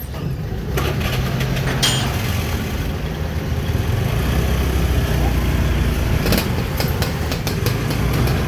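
An engine running steadily with a low hum, with a brief click about two seconds in and another past six seconds.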